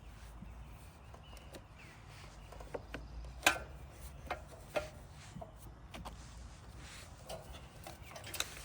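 A handful of sharp clicks and knocks at irregular intervals over a low steady background, the loudest about three and a half seconds in.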